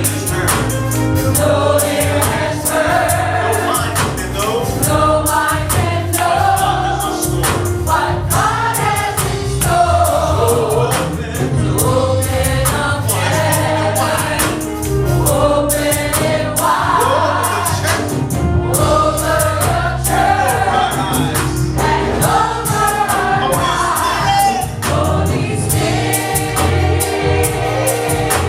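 Gospel choir singing a worship song with a full band: steady bass and drums under the voices.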